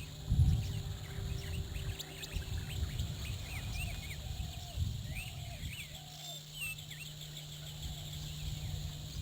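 Several wild birds chirping and calling, many short chirps sliding up and down in pitch, with a few lower short calls among them. Underneath runs a steady low hum and a steady high hiss, and a low rumbling bump about half a second in is the loudest sound.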